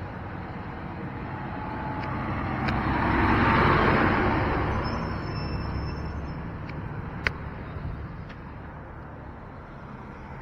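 A road vehicle driving past, growing louder to a peak about four seconds in and then fading away, with a single sharp click about seven seconds in.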